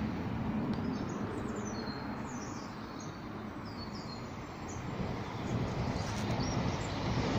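Small birds chirping in short, repeated calls over a steady background rumble of road traffic. The traffic swells again near the end.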